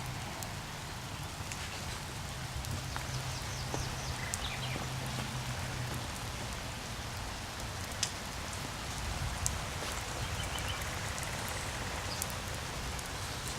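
Steady rain falling, with scattered sharper drips and drops hitting surfaces.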